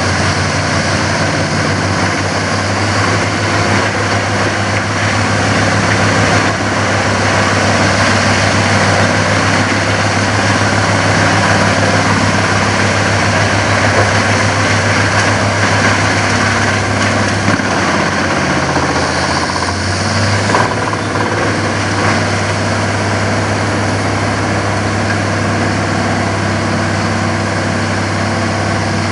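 Dutch Dragon EC10075 woodchipper's engine running steadily. Its note drops for a couple of seconds about eighteen seconds in, then settles back.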